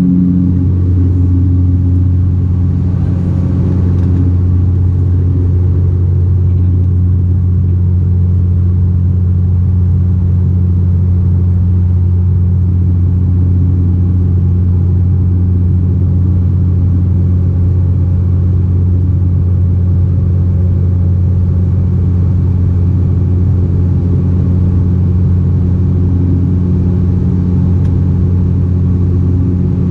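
Cabin drone of a Bombardier Dash 8-402 (Q400) in flight: its turboprop propellers give a loud, steady deep hum with a second tone an octave above it.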